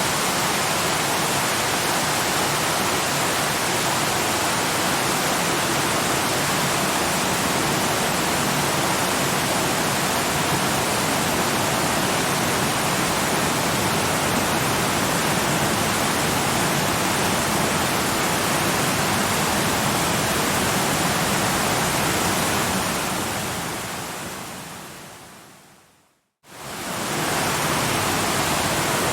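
Steady rushing of a waterfall. Near the end it fades smoothly to silence and quickly fades back in, like an edit or loop point in the recording.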